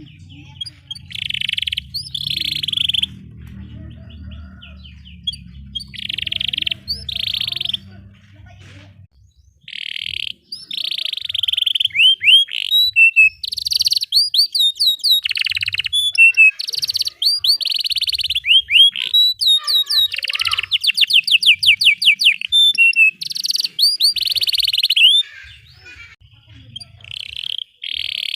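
Domestic canary singing a long, continuous song of buzzy trills, chirps and fast rolling runs of rising notes. A low hum sits under the song for the first nine seconds or so.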